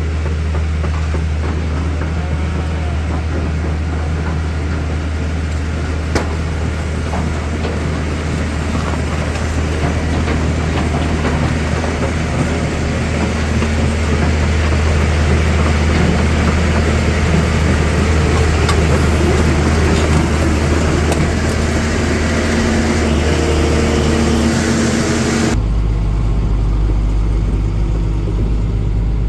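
A vehicle engine running steadily. Near the end its higher-pitched noise cuts off abruptly, leaving a low, steady engine sound.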